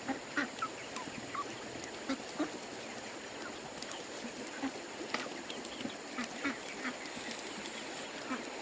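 Short, irregular calls of fowl, repeated many times over a steady background hiss.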